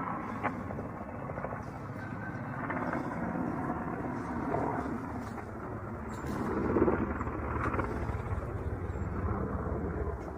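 Ka-52 attack helicopter running steadily, its coaxial rotors and engines giving a dense, even drone, with a brief click about half a second in and a louder swell around seven seconds.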